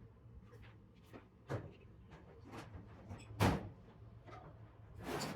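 Scattered knocks and clatters, the loudest about three and a half seconds in and a longer rattling burst near the end, over a low steady hum.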